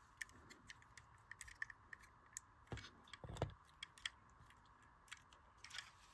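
Small plastic LEGO pieces clicking and tapping as they are handled and fitted together, a scatter of faint sharp clicks with a couple of louder knocks around the middle.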